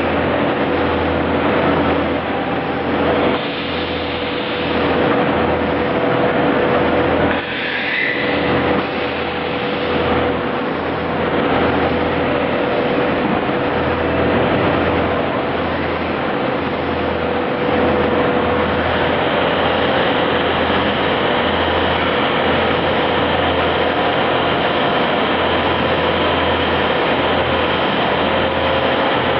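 CNC machine running: a steady mechanical noise with a few constant tones and a low hum, and a higher tone that joins about two-thirds of the way through.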